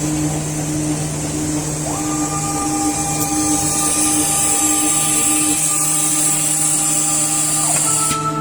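Filter-paper pleating machine running: a steady motor hum under a strong high hiss. A higher whine joins about two seconds in, and near the end the hiss cuts off suddenly.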